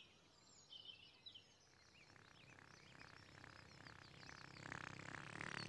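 Faint birdsong in near silence, a few high chirps about half a second to a second and a half in. Over the last few seconds a quiet pulsing sound fades in and grows louder.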